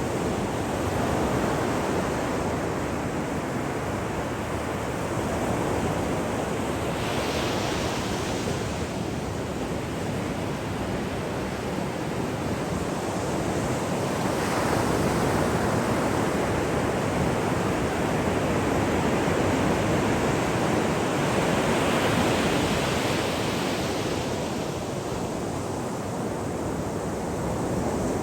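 Ocean waves breaking and washing up a shore: a continuous rushing surf that swells to a brighter hiss as a wave breaks, about every seven or eight seconds.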